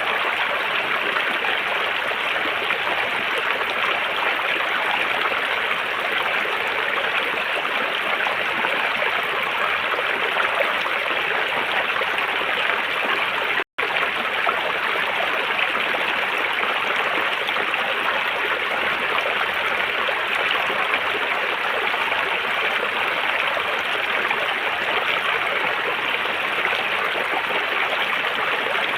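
River water running as a steady rushing stream. The sound drops out for an instant about halfway through.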